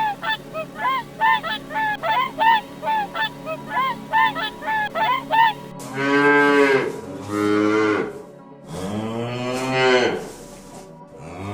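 Geese honking in quick repeated calls, a few a second. About six seconds in the sound changes abruptly to cattle mooing: three long, drawn-out moos.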